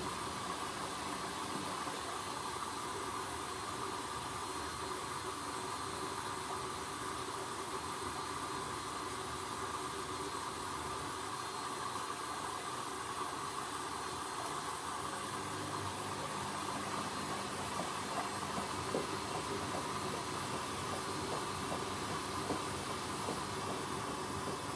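Hoover H-Wash 300 washing machine running mid-cycle: a steady hiss, with a low hum and a few light ticks joining about halfway through.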